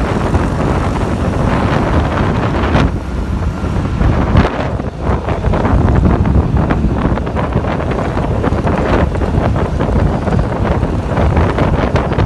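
Heavy wind buffeting on the camera microphone during a ride, in ragged gusts, with vehicle noise underneath.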